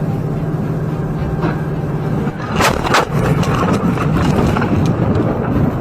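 Steady vehicle running noise, then two sharp bangs close together about two and a half seconds in, followed by louder rattling and scraping with smaller knocks.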